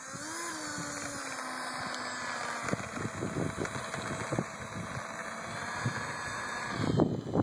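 64mm electric ducted fan on a brushless outrunner motor spinning up and running with a steady high-pitched whine, with a loud rush of noise near the end.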